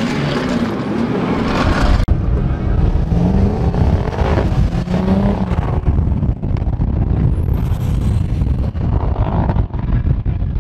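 Turbocharged BMW M50 straight-six engine of an E30 drift car running steadily, with a brief rising whistle about three quarters of the way through. The car is being tried for drive after a cup that fell out of the differential was knocked back in.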